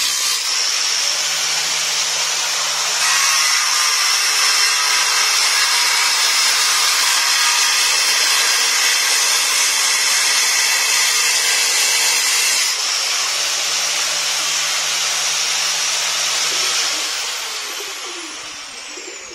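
Corded electric power tool running at speed and cutting into hard stone, which it does not cut well. Its motor runs down with a falling whine near the end.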